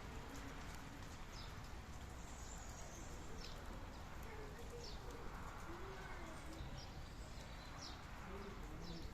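Steady rain hiss with a small bird giving short high chirps, about one every second and a half.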